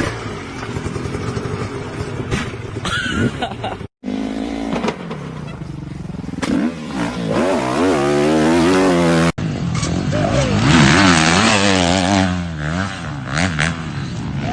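Dirt bike engines revving, the pitch rising and falling quickly as the throttle is worked, in three short clips cut together about four and nine seconds in.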